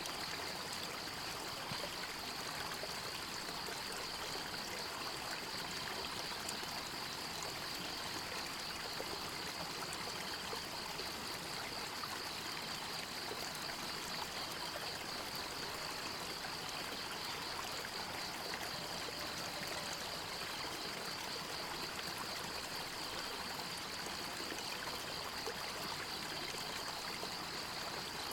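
Forest river water running steadily over rocks, an even rushing and trickling. A steady, high-pitched pulsing buzz runs over it.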